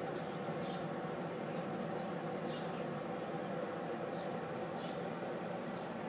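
Small birds chirping outdoors: short high chirps under a second apart and a few faint falling whistles over a steady background hiss.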